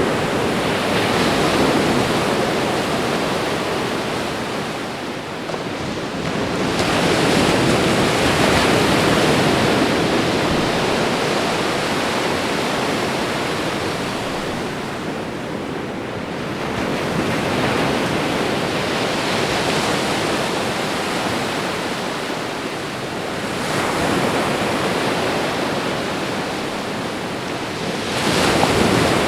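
Ocean waves washing onto a shore, a steady rushing wash that swells and eases every several seconds as each wave breaks and draws back.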